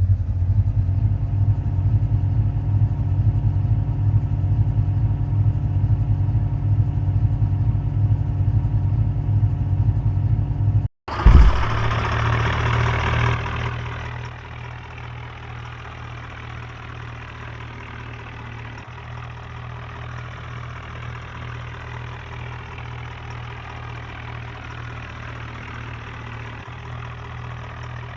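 Tractor engine running steadily at idle. About 11 seconds in the sound breaks off briefly and comes back louder for a couple of seconds, then settles into a quieter, even idle.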